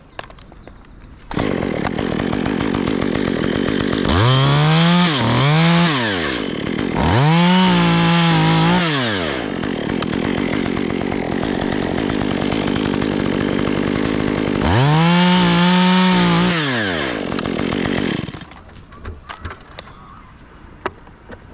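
Chainsaw engine idling and revved to full throttle four times: two quick revs, then a longer one, and a last one after a spell at idle. It stops near the end.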